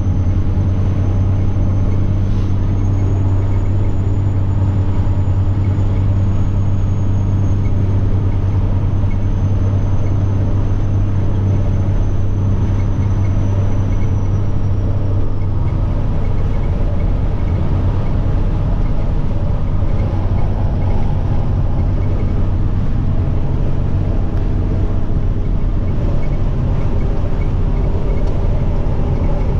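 Semi truck's diesel engine running steadily under way, with a high turbocharger whine that rises slightly a few seconds in, then slowly falls and fades out about halfway through.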